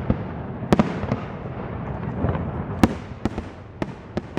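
Aerial fireworks bursting: a string of sharp bangs at uneven intervals, about eight of them, over a continuous rumble.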